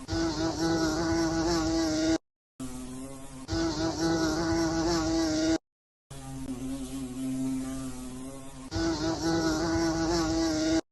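Flying insect buzzing with a steady pitched hum, in repeated segments broken twice by short silent cuts. Partway through each segment the hum steps up to a higher pitch with added hiss.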